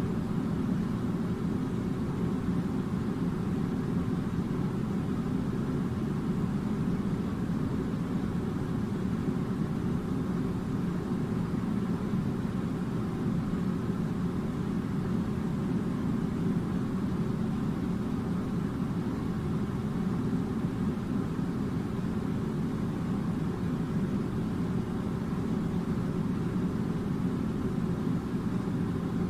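Air conditioning unit running with a steady low rumbling hum.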